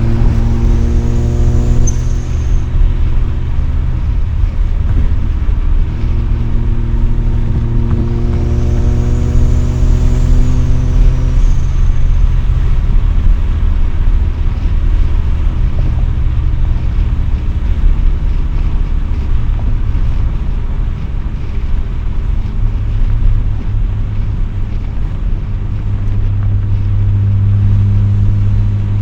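Mazda RX-7 rotary engine through an RE Amemiya Dolphin Tail 90 Curl exhaust, heard from inside the cabin with the windows down. The revs climb twice under acceleration, then it cruises steadily, with a stronger low drone near the end.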